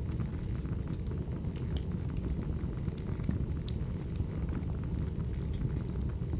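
Wood fire burning: a steady low rumble from the flames, with scattered sharp crackles and pops from the burning logs.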